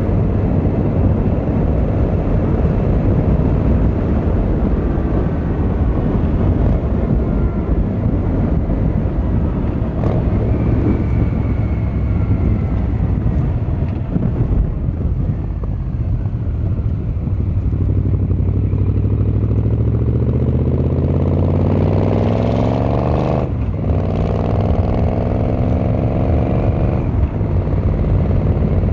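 Yamaha XVZ1300 Royal Star's V4 engine and exhaust heard while riding, with wind rush over the first half. Past the middle the engine pulls up in pitch, breaks off sharply for a gear change, climbs again, then drops off near the end.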